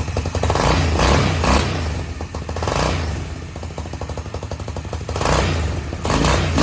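Go-kart's swapped-in engine running, idling with several blips of the throttle that swell and fall back. It runs rough, which the owner puts down to a carburetor needing cleaning or tuning.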